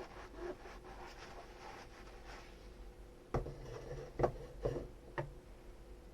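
Dishes being washed by hand: soft rubbing, then four knocks of crockery bumping or being set down in the second half, the loudest a little past the middle.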